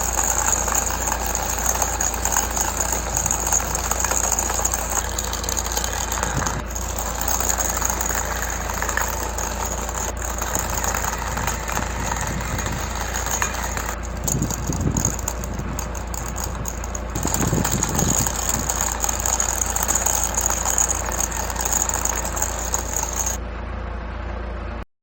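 Small DC motor of a homemade toy road roller built from drink cans, running, with a rattle from the can body and a steady high whine that stops near the end.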